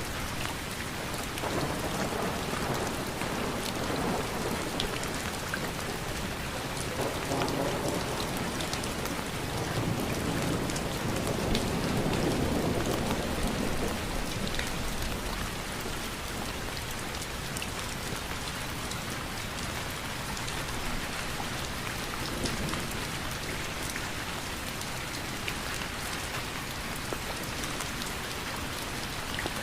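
Steady rain falling and pattering on surfaces, with a low rumble of distant thunder in the first half that swells about twelve seconds in and then fades away.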